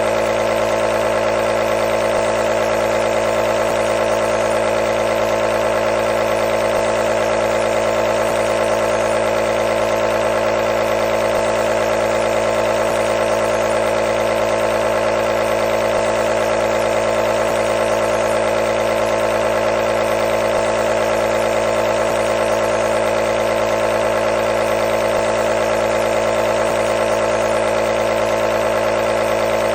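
Compressor nebulizer running continuously, a steady, unchanging hum with a hiss over it.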